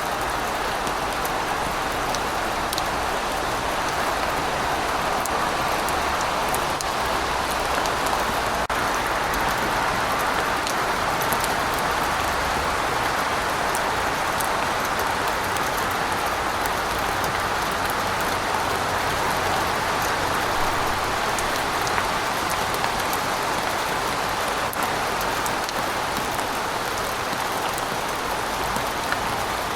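Steady rain falling, a dense even hiss with scattered sharp drop ticks on top.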